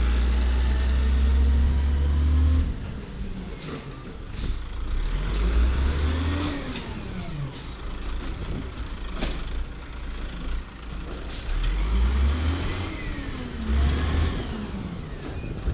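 Diesel garbage truck engine running, a loud deep rumble for the first couple of seconds that then drops away, with the engine pitch rising and falling twice as it pulls away and eases off, and a few sharp clicks.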